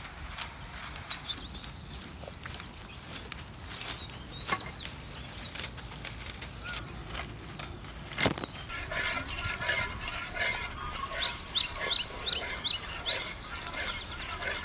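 Scattered sharp clicks, then about two-thirds of the way through a bird calling in a quick run of short rising chirps, about four a second.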